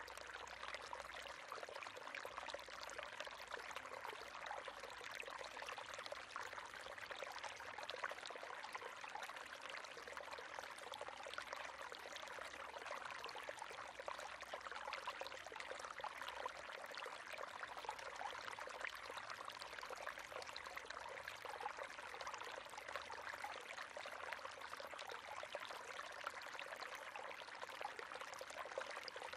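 River water flowing and splashing steadily, a continuous rushing with fine trickling detail.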